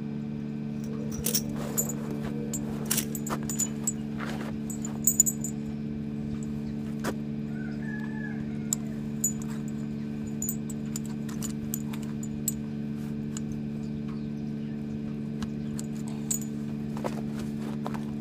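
Steel tire chain links clinking and jangling in short, irregular bursts as the chains are handled, over a steady low hum.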